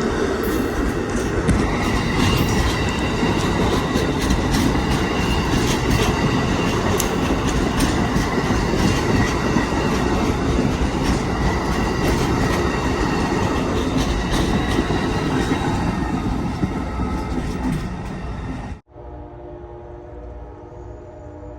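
Train passing close by: a steady rumble of wheels on rail with repeated sharp clicks and a thin, high wheel squeal. It cuts off suddenly near the end, leaving a much quieter, steady hum.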